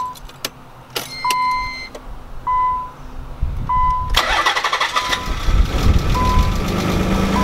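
Nissan 300ZX (Z32) 3.0 L V6 being started, with the car's warning chime beeping about every 1.2 s throughout. The engine cranks and catches about four seconds in, then keeps running. This is the first start after a broken engine wire was repaired.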